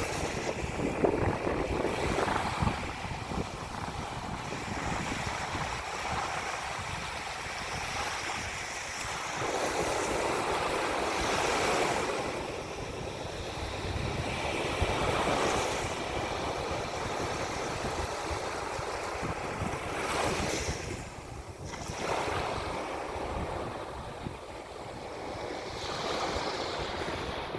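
Ocean waves washing ashore, the rush swelling and easing every few seconds, with wind buffeting the microphone as a low rumble.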